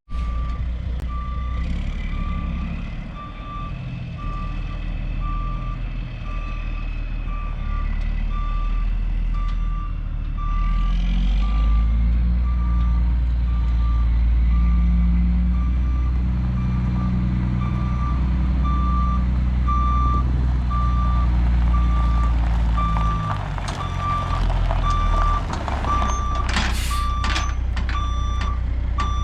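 Backup alarm beeping steadily at one pitch on reversing heavy equipment, over its diesel engine working under load, the engine getting louder about a third of the way in and easing near the end. A few sharp knocks near the end.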